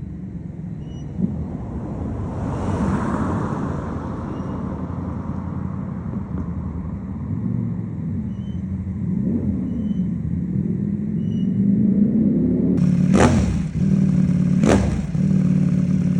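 Ducati Panigale V4 SP2's V4 engine running through a CS Racing aftermarket exhaust: a steady idle, the revs rising briefly a couple of times, then two sharp throttle blips near the end.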